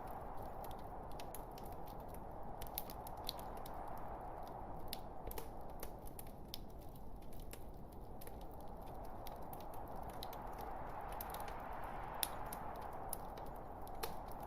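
Log fire burning, with frequent sharp crackles and pops of the burning wood over a steady rushing hiss of the flames; one louder pop near the end.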